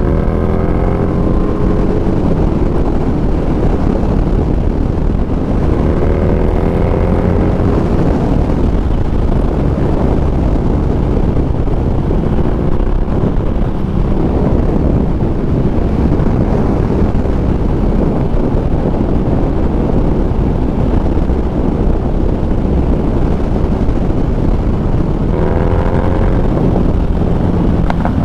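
Harley-Davidson Street Rod 750's V-twin engine running steadily under way, with wind rushing over the microphone. The revs climb about six seconds in and again near the end.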